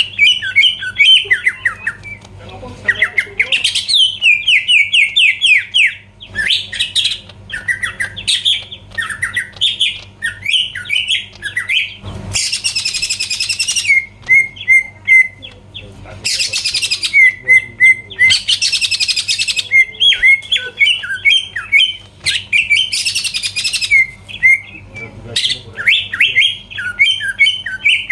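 Green leafbird (cucak ijo) in full song: a fast, varied run of chirps and trills, broken by several harsh, rasping bursts in the middle and toward the end.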